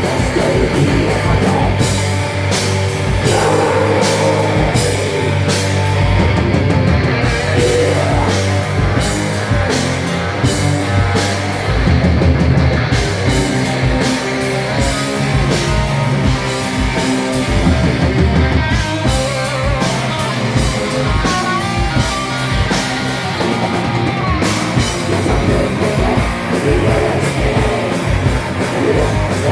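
A band playing heavy rock live: loud distorted guitars and bass over a driving drum kit with steady cymbal hits.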